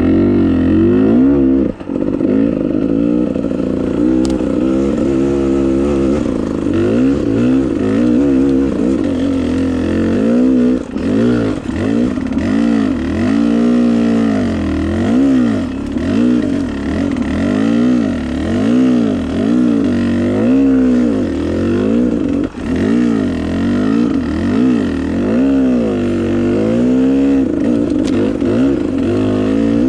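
Off-road motorcycle engine under way on a trail, the revs rising and falling again and again as the throttle is worked, with brief drops in the engine note about two seconds in and again past the middle.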